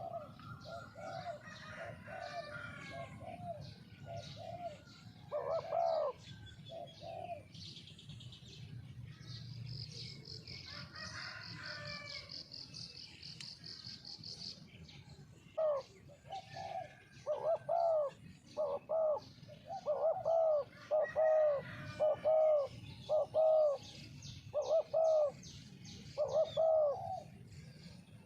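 Spotted doves cooing, phrase after phrase, sparser early on and coming thick and loud in the second half. Smaller birds chirp higher up, and a steady high buzzing trill runs for a few seconds in the middle.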